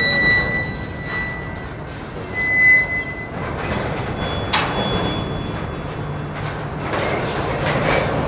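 Empty grain train of covered hopper cars rolling slowly. Steel wheel flanges squeal in high, steady tones at the start and again a couple of seconds in, then the cars clank and rattle over a low rumble near the end.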